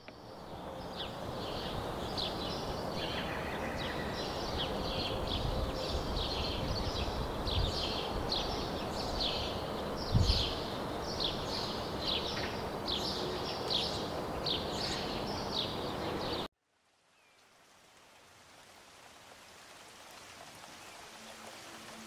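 A bird calling over and over in short, downward-slurred chirps, about one or two a second, over a steady outdoor background rumble, with a single dull thump about ten seconds in. The sound cuts off abruptly about sixteen seconds in, and a faint hiss slowly rises after it.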